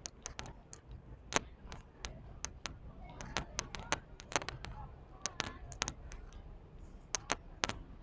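Irregular sharp clicks and taps, a dozen or more scattered through, over faint background voices.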